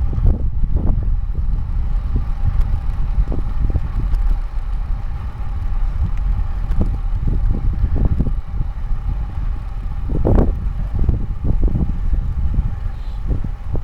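Wind rumbling and buffeting against the microphone of a camera on a bicycle moving fast, with irregular gusts and thumps and a stronger gust about ten seconds in.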